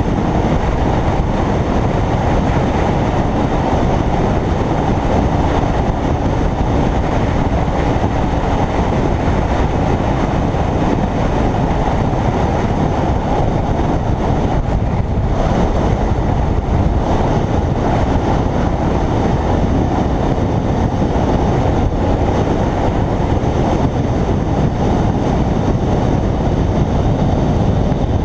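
Kawasaki Ninja 300 motorcycle at road speed: a loud, steady rush of wind and road noise on the microphone, with the parallel-twin engine buried beneath it. The noise eases briefly about halfway through.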